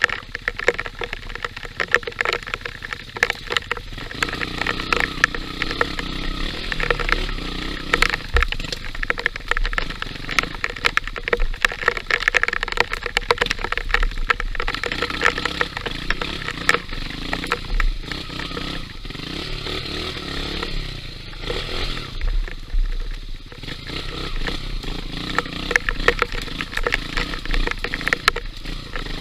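Trail motorcycle engine running under changing throttle as it rides a dirt trail, with many short knocks and rattles throughout.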